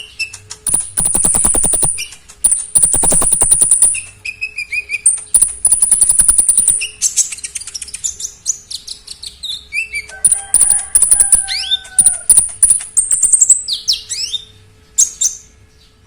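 A konin songbird singing loudly in phrases: long, very high buzzing trills alternate with rapid rattling clicks and quick sweeping chirps. The song stops shortly before the end.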